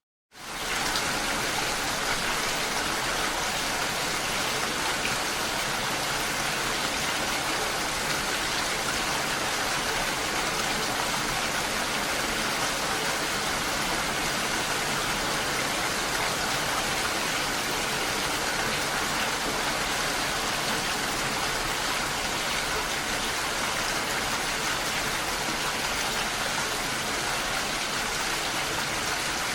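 Steady rain falling, a dense, even hiss with no let-up. It cuts in abruptly after a brief moment of silence at the very start.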